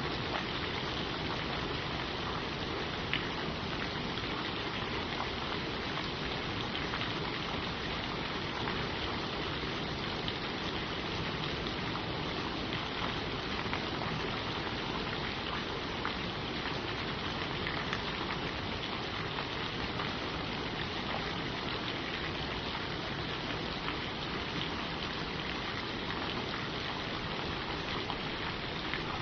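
Steady rain falling on forest leaves: an even hiss with scattered drop ticks.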